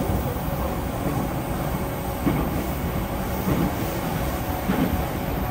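Running noise inside a JR East E233-0 series electric train car at speed: a steady rumble of wheels on rail with a faint steady hum from the Mitsubishi IGBT-VVVF traction motors. Soft wheel thumps come about every second and a quarter in the second half.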